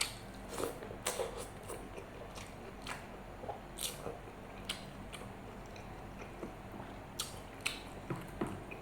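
Close-up eating sounds: a person chewing a mouthful of rice with curry and martabak, with irregular wet mouth clicks and smacks.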